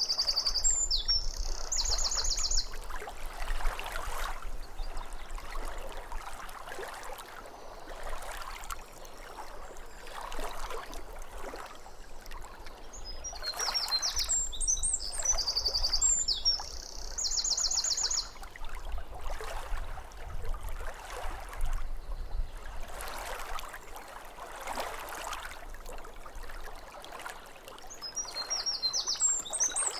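Small waves lapping at a lake shore, the water noise swelling and ebbing every couple of seconds, with a songbird singing short high chirping phrases near the start and again about halfway through.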